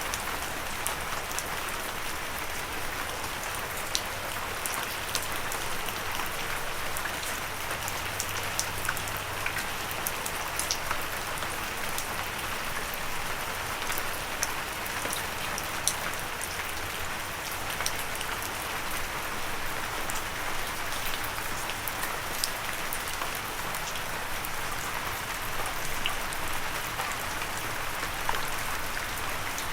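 Steady gentle rain falling, an even hiss with scattered sharper drip ticks, without thunder.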